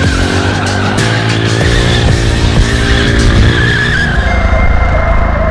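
Motorcycle rear tire squealing and skidding during a rolling burnout to warm the tire, over the engine running hard. The squeal wavers, and the sound changes about four seconds in.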